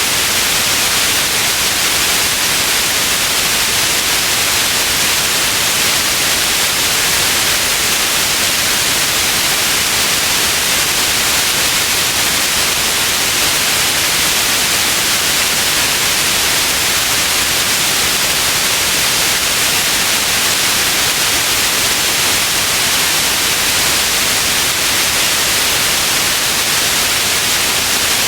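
Steady white noise: an even, unbroken hiss, brightest in the high frequencies, with no change in level.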